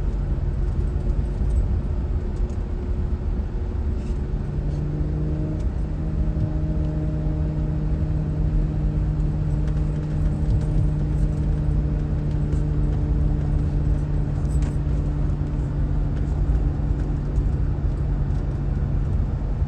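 A car driving at a steady speed: a constant low road rumble under a steady engine drone, which shifts slightly in pitch about five seconds in.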